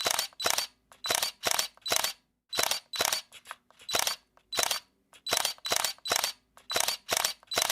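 Camera shutter clicking over and over, about two sharp clicks a second, with a couple of brief pauses.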